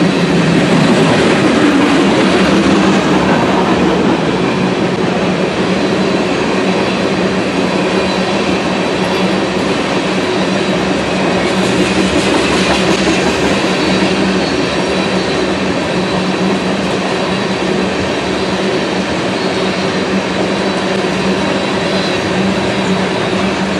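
Freight train of tank cars rolling past close by: steady wheel-on-rail noise with clickety-clack and a constant low hum underneath.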